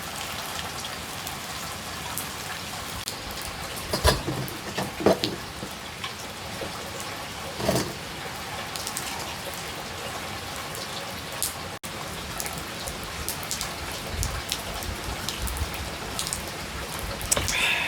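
Steady rain falling and pattering on surfaces, with a few louder knocks or clatters about four, five and eight seconds in.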